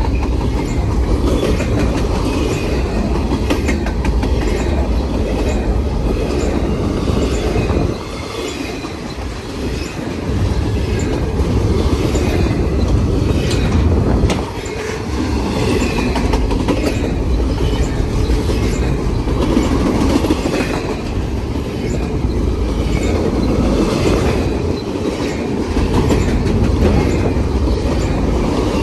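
Freight train cars rolling steadily past, wheels clicking over the rail joints with a constant rumble. The sound dips briefly about eight seconds in and again near the middle.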